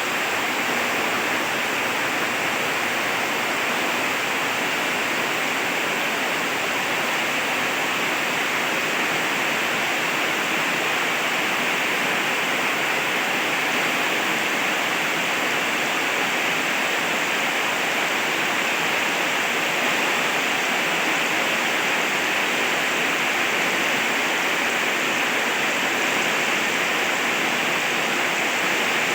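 Heavy rain falling steadily, a constant dense hiss without separate drops standing out.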